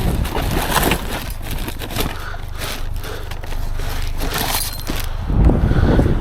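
Junk in a dumpster crunching and scraping as it is shifted and stepped on, with scattered sharp knocks and crackles. A low rumble is strong at the start and again from about five seconds in.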